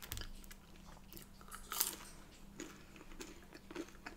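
Close-miked chewing of crinkle-cut chips: soft wet mouth sounds and small clicks, with one louder click a little under two seconds in.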